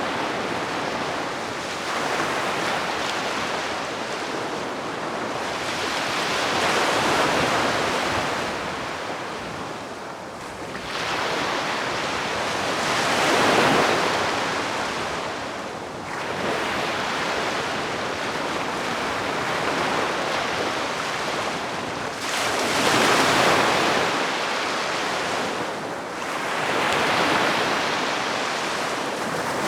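Gentle sea waves breaking and washing up on a beach, one swell of surf every few seconds, each rising and fading away.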